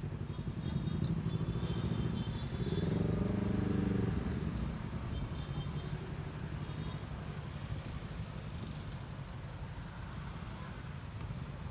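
Honda ADV150 scooter's single-cylinder engine running while riding, under steady road and wind rumble. A louder, pitched engine note swells about three seconds in and then fades back.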